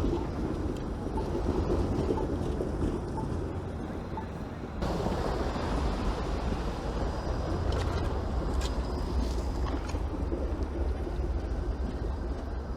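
Steady street noise with a low traffic rumble, and several short, sharp snaps in the second half: electrical arcing where TTC streetcar pantographs meet the iced overhead wire. A falling tone begins near the end.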